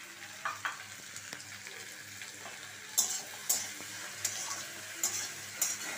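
Ivy gourd and freshly added chopped tomatoes sizzling in hot oil in a metal wok. A metal spatula stirs and scrapes the pan, with sharp scraping strokes about every half second from about halfway in.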